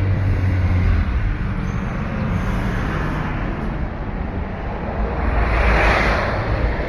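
Road traffic: a steady low engine rumble, with one vehicle going by loudest about six seconds in.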